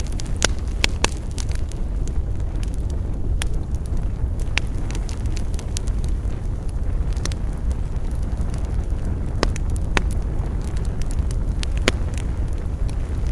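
Wood campfire burning: irregular sharp crackles and pops, a few close together near the start and the rest spaced a second or more apart, over a steady low rumble.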